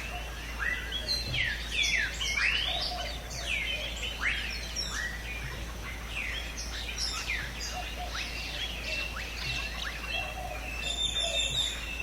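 A chorus of several birds calling over one another, mostly quick sweeping whistled notes, busiest in the first half. Near the end comes a short, fast, high pulsing trill.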